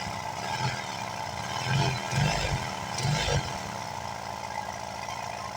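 Honda Vario 110 scooter's single-cylinder engine running at idle, surging louder a few times about two to three and a half seconds in, carrying a strange croaking "krokok-krokok" noise from the magneto side. The mechanic takes it to be air escaping through the gaps of a loose seal there.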